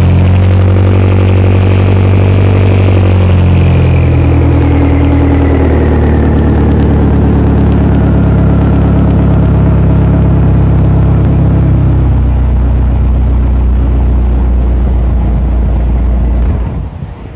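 Straight-piped exhaust of a 2000 Pontiac Sunfire GT's 2.4-litre four-cylinder engine, running loud and steady just after starting, with a deep drone and a higher whine that slowly falls in pitch over the first several seconds. The sound cuts off sharply about a second before the end.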